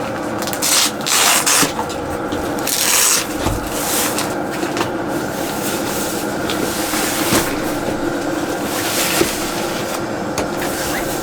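Rubbing and scraping of camping gear being handled and moved, in several short bursts, the loudest about a second in and about three seconds in. Underneath runs the steady hum of a diesel air heater.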